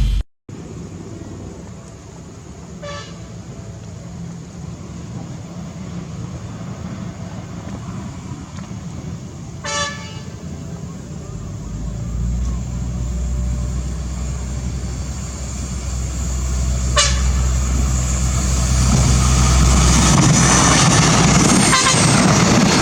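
Diesel train horn sounding three brief blasts several seconds apart as a train approaches, then the locomotive's engine rumble and wheel noise rise and grow loud over the last few seconds.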